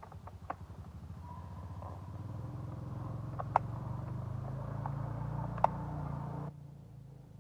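An engine running, building up over the first couple of seconds and then holding steady, with a few sharp clicks; it drops off abruptly about six and a half seconds in.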